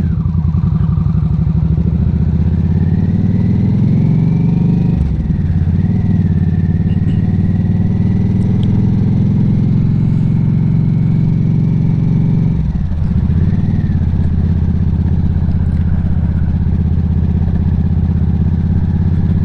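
Harley-Davidson motorcycle's V-twin engine running under way. It rises in pitch over the first few seconds and drops sharply about five seconds in as it shifts gear, holds a steady cruise, dips briefly near thirteen seconds, then runs steady again.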